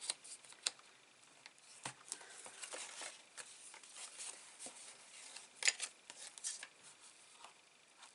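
Cardstock being folded and creased by hand: scattered light rustles and taps, with a sharper crackle about five and a half seconds in.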